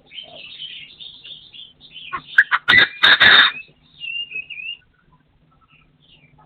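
Partridge calling: a chatter of high notes, then a loud run of rapid harsh call notes about two seconds in, followed by a short warbling phrase.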